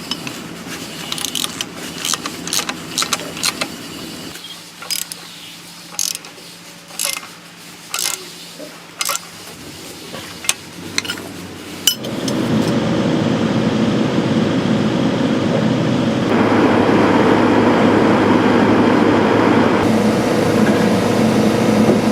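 Scattered sharp knocks about a second apart. Then, about halfway through, an excavator's engine and hydraulics start up and run steadily, getting louder again a few seconds later.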